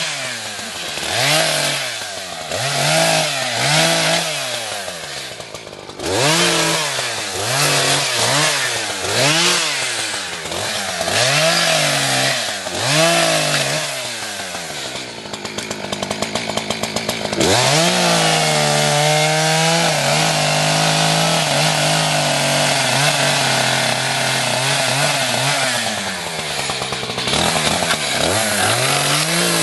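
Two-stroke Echo chainsaw cutting hard eucalyptus. For the first half the engine repeatedly revs up and drops back, about once a second. It then falls to a rough low speed for a couple of seconds, runs at a steady high speed for about eight seconds, and revs up and down again near the end.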